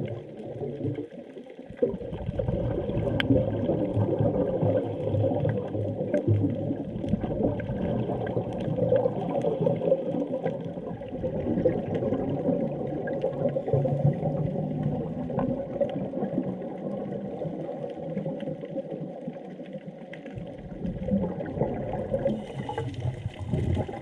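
Underwater bubbling and rushing of a scuba diver's exhaled air, heard through the water in uneven surges. It starts about two seconds in, eases off briefly near the end and then comes back.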